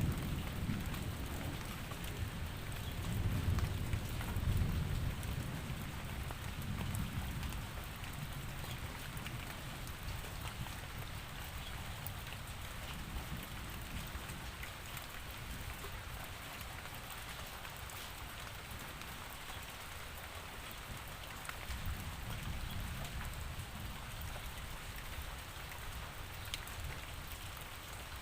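Steady rain falling, with low rolling thunder in the first several seconds that fades away, and another faint low rumble about three quarters of the way through.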